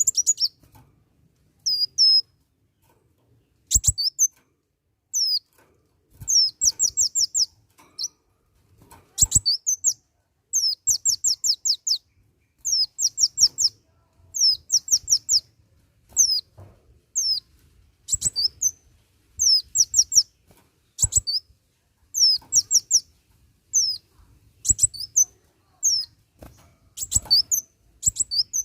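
A kolibri wulung sunbird singing energetically: quick runs of high, thin chirps, each falling sharply in pitch, repeated every second or two. A few sharp clicks are mixed in now and then.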